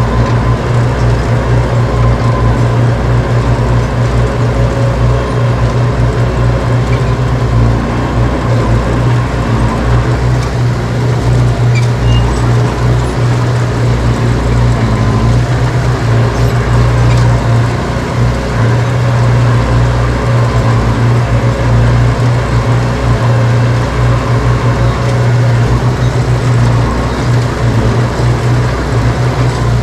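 Heavy diesel earthmoving machinery running steadily under load, a loud constant low engine drone.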